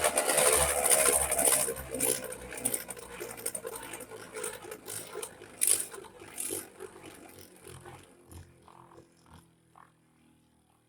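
A Beyblade top (Galaxy Blizzard Shard) spinning and scraping around a plastic stadium after a full-power launch. Its whir slowly drops in pitch and fades away as it loses speed, with a few knocks along the way, and it has all but stopped near the end.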